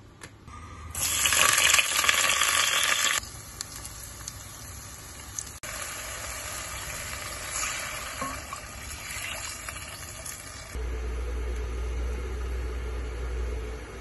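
Aromatics frying in oil in an enamelled cast-iron pot: a loud sizzle for about two seconds starting a second in, then a quieter steady sizzle with small clicks of a wooden spoon stirring. Near the end a low steady rumble takes over as the pot of chicken broth heats.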